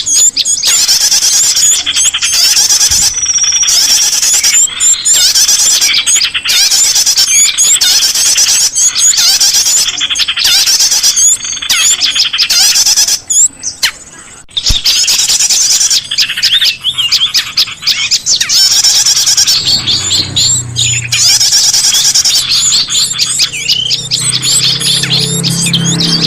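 Dense, rapid high-pitched chirping and twittering of small songbirds, many calls overlapping, played as a bird-lure (pikat) recording. About two-thirds of the way through a low steady hum joins in under the chirps.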